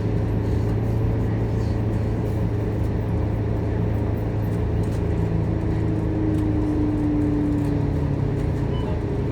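Scania K230UB city bus's diesel engine running under way, a steady low drone heard from on board. Around the middle a higher whine comes in and sinks slightly in pitch before fading.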